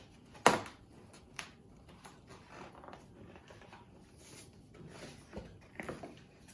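A picture book being handled as a page is turned: a sharp knock about half a second in, then lighter paper rustles and small clicks.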